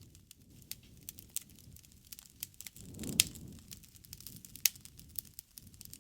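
Wood fire crackling: irregular sharp pops and snaps over a low rumble of burning, with a swell of flame around three seconds in and two louder pops, at about three and about four and a half seconds in.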